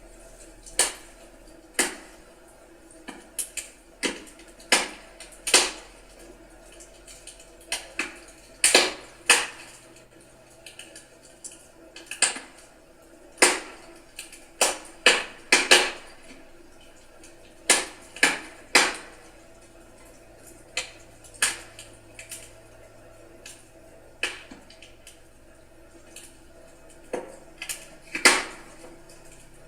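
Firewood burning in a fireplace, crackling with irregular sharp pops and snaps, about one a second and bunched in places, over a faint steady hiss.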